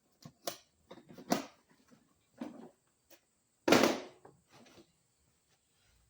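Items being handled in a small emergency repair box: a few separate knocks and clicks, with one louder clunk about four seconds in.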